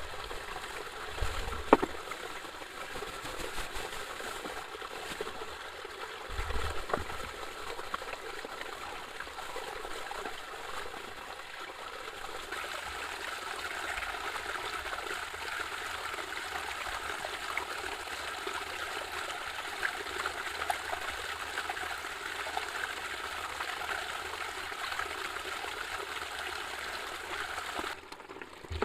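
Steady rain with water trickling and running off, a constant rushing hiss. Two soft knocks sound in the first seven seconds.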